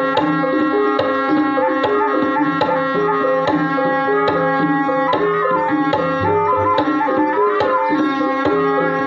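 Javanese gamelan music accompanying an ebeg dance: ringing pitched percussion plays a stepping melody over a steady beat of hand-drum strokes.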